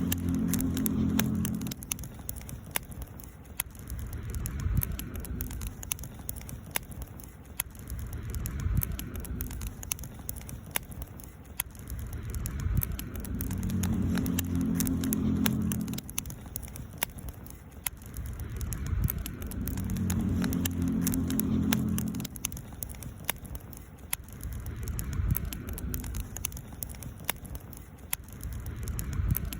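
Wood campfire crackling, with frequent sharp pops and snaps. Under it a low hum swells and fades about every six to seven seconds.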